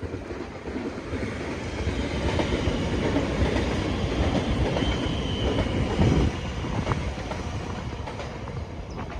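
Train passing on the line: a rumble of wheels on rails that grows louder over the first couple of seconds, holds for several seconds, then eases off near the end.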